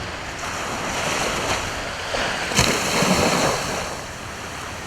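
Sea waves breaking on the shore: the surf swells, crashes about two and a half seconds in, then washes back and eases off.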